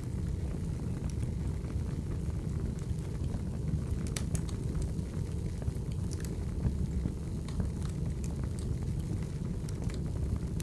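Wood fire burning: a steady low rumble of flames with scattered sharp crackles and pops, a few close together about four seconds in.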